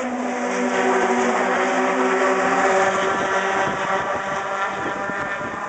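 Racing pickup truck engines running hard at high revs, several steady engine tones together; the main tone drops in pitch a little under halfway through.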